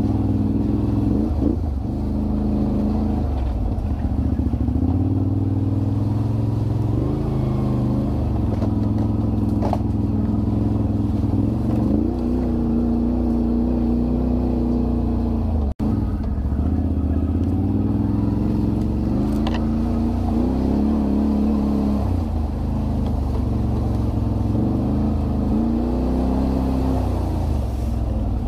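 Can-Am Renegade 1000 ATV's V-twin engine running while riding, its pitch rising and falling again and again with the throttle. The sound drops out for an instant about halfway through.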